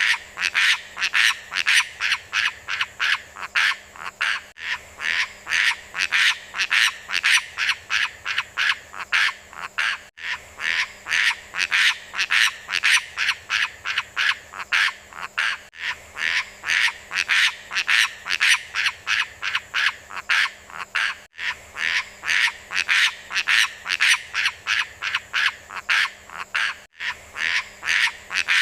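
A beo lumut bird giving short, harsh calls in a steady run of about three a second. The run breaks briefly about every five and a half seconds and then starts again the same way.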